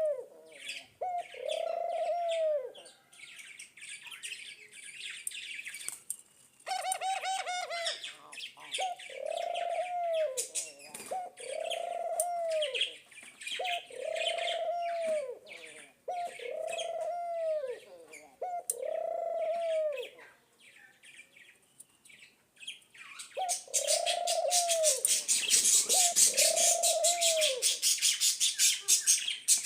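Birds calling: a low arched cooing note, rising then falling, repeated about every two seconds, with high twittering chirps over it. For the last several seconds a loud, fast high-pitched chatter takes over.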